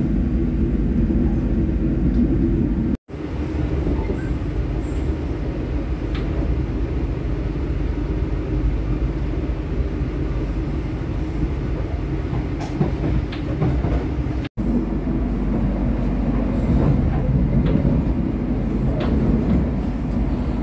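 Argo Cheribon passenger train running: a steady low rumble of wheels on rails, with faint scattered clicks. It is broken twice by sudden split-second dropouts to silence, about 3 seconds in and near the middle.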